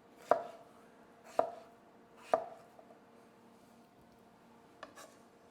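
A knife chopping potatoes into bite-sized pieces: three sharp strokes about a second apart, then two lighter taps near the end.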